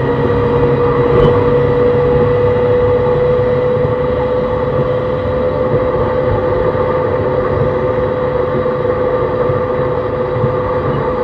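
E131-600 series electric multiple unit running at speed: its Hitachi hybrid-SiC inverter-driven motors give a steady whine of nearly constant pitch over rumbling wheel and track noise.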